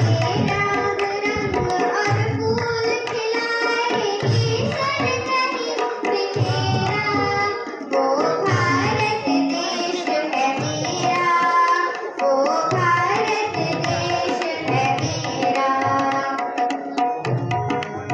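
Hindi patriotic song with tabla accompaniment: a melodic voice line over a steady beat, with deep tabla strokes about once a second.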